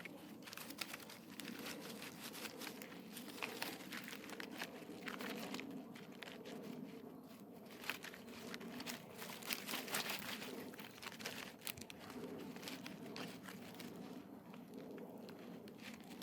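Footsteps crunching irregularly through dry leaves and brush, with a faint steady low hum underneath.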